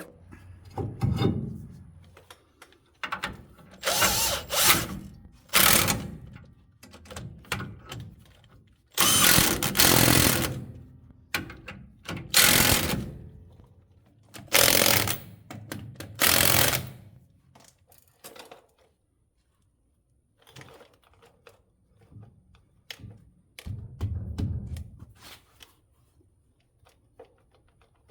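A power tool run in short bursts, about six of a second or two each, with tool clatter between them. After about 18 seconds only faint scattered clicks remain.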